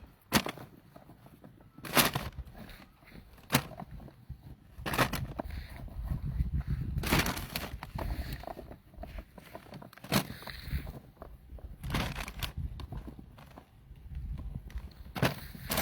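A series of irregular sharp knocks and clicks, about eight of them, over a low rumble.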